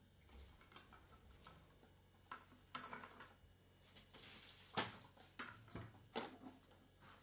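Faint, scattered knocks and clicks, about six, the sharpest nearly five seconds in, over a quiet background.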